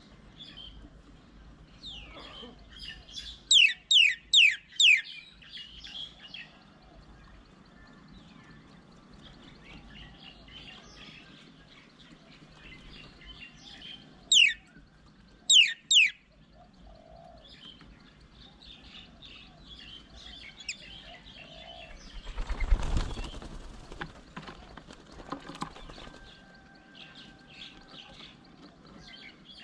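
Garden birds calling: loud, sharp downward-sweeping whistles, a quick run of four and later three, over steady high twittering. About two-thirds of the way through comes a brief rushing noise.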